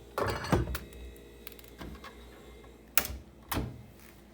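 A few short knocks and clicks: objects being handled, with a cluster of them in the first second and two sharper ones about three seconds in.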